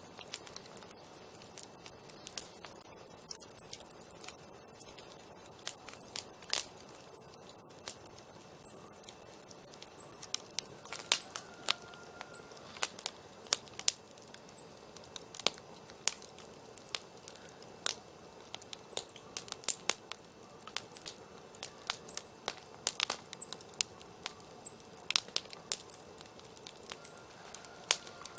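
Wood fire crackling, with irregular sharp pops and snaps throughout. A dense, high, rapid hiss sits over the crackle for the first few seconds.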